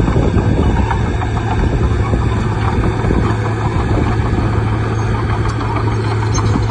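Bulldozer's diesel engine running steadily and loudly, with a constant low drone under a rough mechanical noise.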